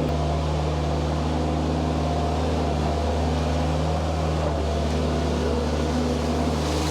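An engine running steadily at a constant speed, giving an even low hum that does not rise or fall.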